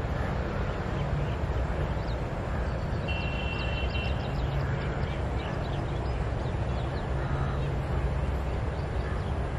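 Birds chirping and calling over a steady low rumble, with a held high note a few seconds in.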